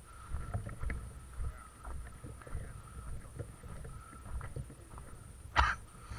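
Irregular low thumps and rustling, as from an airsoft player moving over rough ground with a worn camera. About five and a half seconds in there is one short, sharp crack, the loudest sound here.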